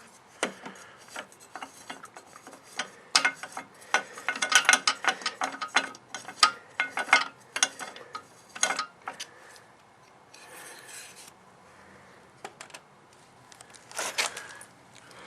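Hands handling and rubbing the all-metal body of a vintage Dayton 2Z461 chainsaw: an irregular run of scrapes and clicks, busiest in the first nine seconds, with another short cluster near the end.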